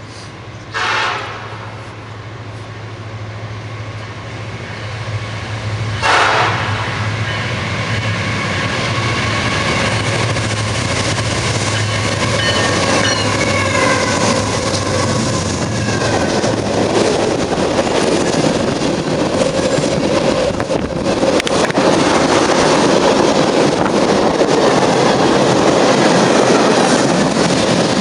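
Train rumbling as it approaches, its sound building steadily louder. Two short loud blasts come about one second and about six seconds in, and a few steady high tones are heard in the middle.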